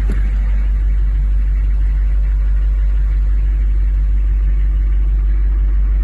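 Chevrolet 6.5-litre turbo diesel V8 idling with a steady low rumble.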